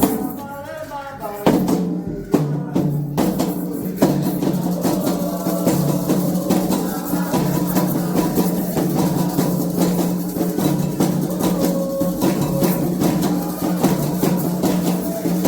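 Candomblé atabaque drums: a few separate strokes, then from about four seconds in a steady, dense rhythm.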